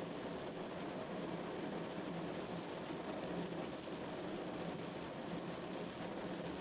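Steady rain drumming on a car's roof and body, an even patter with no break.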